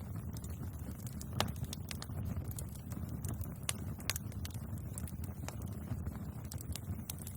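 Bonfire burning: a low steady rumble of flames with irregular sharp pops and crackles from the burning wood, the loudest pop a little over a second in.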